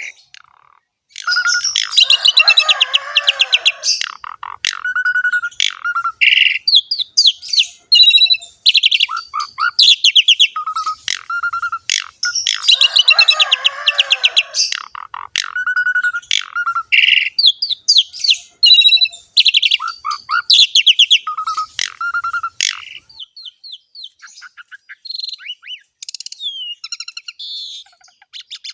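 Asian pied starling (jalak suren) in full, vigorous song: a long, varied run of rapid chattering trills mixed with short whistled notes. One dense passage repeats about eleven seconds later, as in a looped recording.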